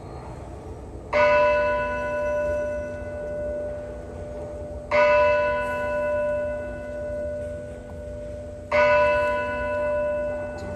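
A church bell tolling three times, about four seconds apart, each strike ringing on and slowly fading.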